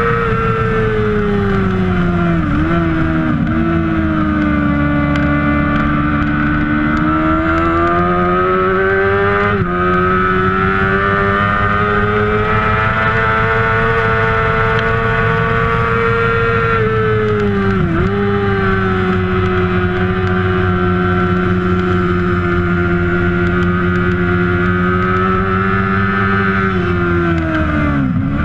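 Kawasaki ZX-6R 600cc inline-four sport bike engine racing at high revs. The pitch dips sharply at each gear change, about 3 s in, near 10 s and at 18 s, climbs again between changes, and falls away near the end as the revs drop.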